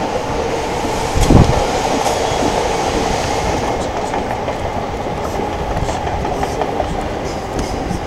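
Trains running on the tracks at Tokyo Station: a steady rumble with a faint held tone and scattered wheel clicks. A single low thump comes about a second and a half in.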